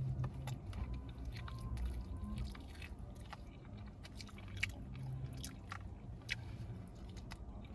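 Irregular short clicks and crunches over a steady low rumble.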